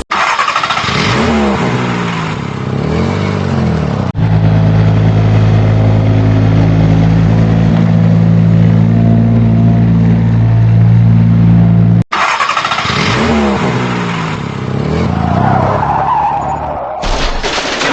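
Vehicle engine sound effect: revving up and down for about four seconds, then running at a steady pitch for about eight seconds, cut off abruptly, then revving up and down again.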